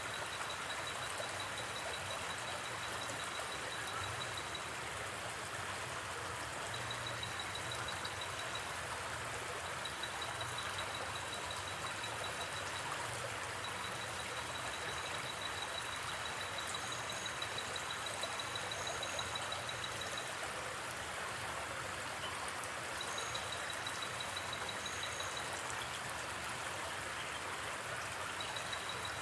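Gently flowing river, a steady rushing of water. Over it, a high, rapidly pulsed trill starts and stops several times, as from a night insect, and a few short double chirps come in the second half.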